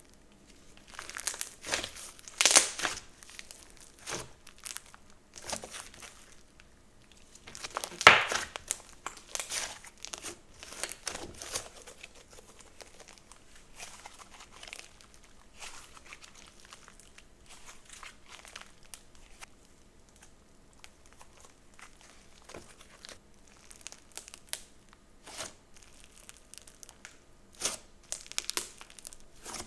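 Slime being squished, stretched and poked by hand, making irregular crackles and small pops, loudest about two and a half and eight seconds in.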